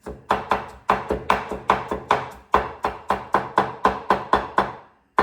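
Kitchen knife slicing ginger on a wooden cutting board: quick, even chops, about five a second.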